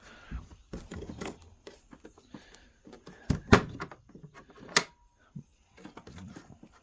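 Scattered clicks and clunks of petrol stove kit parts being handled and set down, the loudest knock about three and a half seconds in and a sharp click near five seconds.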